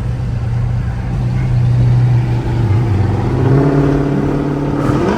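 Loud muscle-car V8 engine running at a steady drone, then revving, its pitch climbing over the last couple of seconds.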